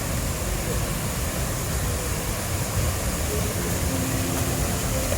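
Loud, steady rushing of a waterfall in full flow, an even roar weighted toward the low end.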